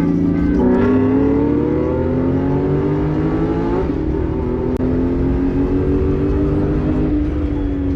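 Car engine accelerating hard, its pitch climbing for about three seconds. It drops sharply at a gear change about four seconds in, climbs again, then eases off near the end.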